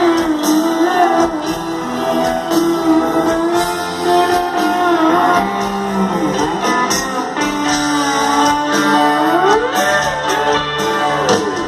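Rock music without vocals: a lead guitar plays long held notes with slow upward and downward bends over the band.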